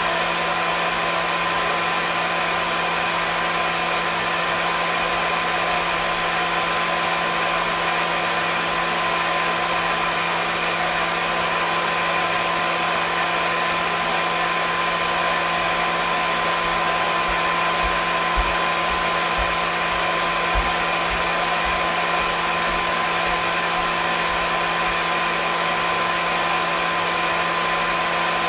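Hair dryer running steadily: an even rushing blow with a constant motor hum underneath. A couple of faint low bumps come about two-thirds of the way through.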